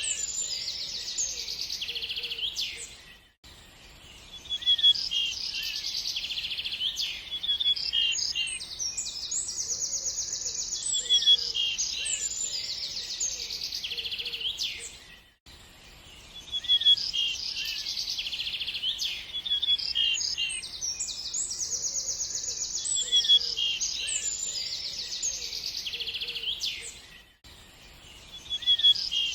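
Songbirds chirping and singing, with high chirps and fast trills. The same passage repeats about every twelve seconds, each time after a brief drop to near silence.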